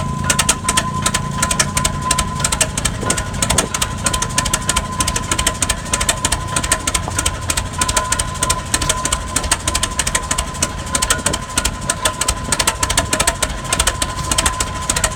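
Minneapolis Prairie tractor engine running steadily, with rapid, even firing beats and a steady high tone over it.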